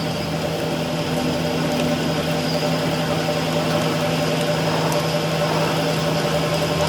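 Steady hum of a running machine motor, unchanging in pitch and level.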